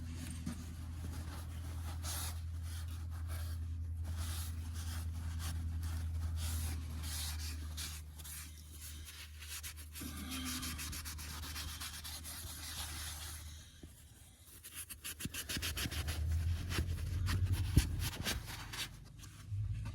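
Cloth rubbing over the Schlüter 8-cylinder engine block, wiping the excess dye penetrant off the test area in repeated back-and-forth strokes that come faster and more regularly near the end. A low steady hum runs under the first part.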